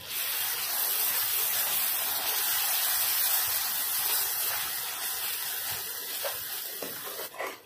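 A loud hiss that starts suddenly and slowly fades over about seven seconds.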